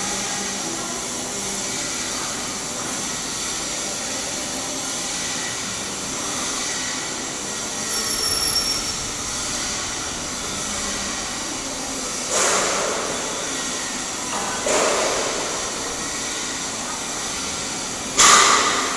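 Stick-welding arc of an E7018 electrode, a steady crackling hiss through the cap pass, with three sudden louder surges in the second half.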